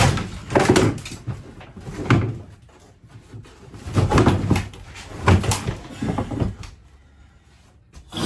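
A sink and its wooden cabinetry being wrenched loose: a series of rough bangs and scraping knocks, dying away about two-thirds in, then one sharp knock at the very end.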